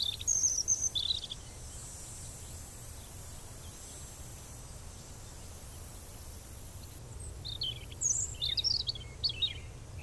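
Faint high-pitched bird chirps: a few in the first second, then a cluster of short chirps near the end, over a steady low hum.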